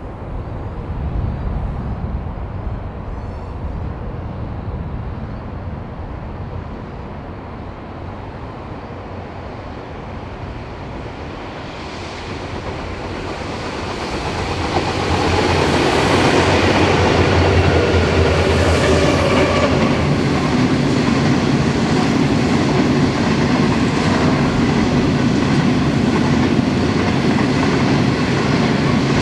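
Diesel-hauled grain train: several diesel locomotives heard approaching, growing louder and passing about halfway through, followed by a long string of grain hopper wagons rolling steadily by.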